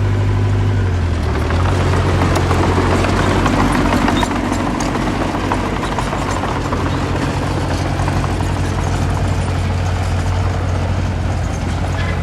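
Diesel engine of a small earthmoving machine running steadily under work. It gets louder about a second and a half in and eases back slightly about four seconds in.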